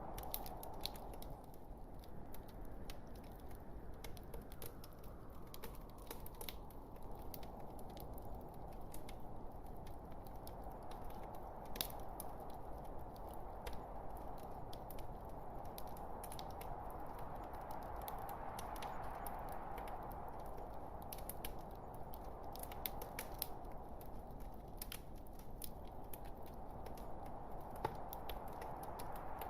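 Wood logs burning in a fireplace: a steady hiss of flame with many small crackles and pops, one sharper pop about twelve seconds in.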